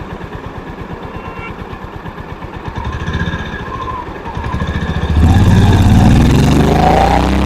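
Honda CB350's single-cylinder engine thumping at idle, a brief blip of throttle about three seconds in, then getting much louder about five seconds in and rising in pitch as the bike accelerates away.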